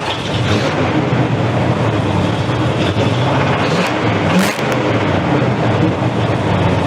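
A 351 V8 engine running steadily after a start on starting fluid, its note rising briefly about four seconds in. No rod knock can be heard, though the engine has a spun rod bearing.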